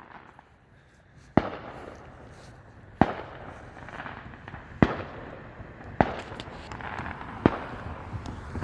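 Fireworks shells bursting: five sharp booms about a second and a half apart, each trailing off in a fading rumble.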